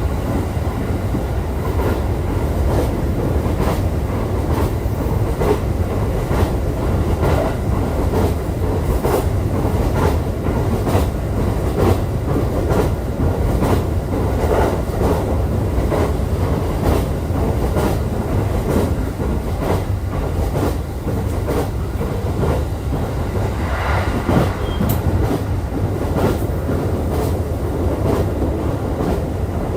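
Running sound of a JR East E531 series electric train heard from inside the car at speed. The wheels keep up a steady rumble on the track, with clicks of wheels over rail joints roughly once a second.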